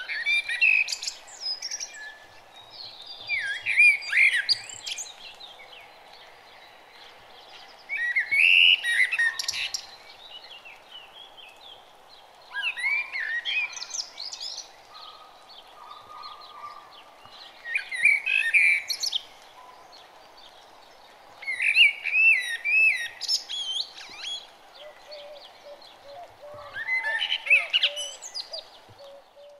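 Birdsong: a songbird sings short, rapid warbling phrases about every four to five seconds over a steady faint background hiss.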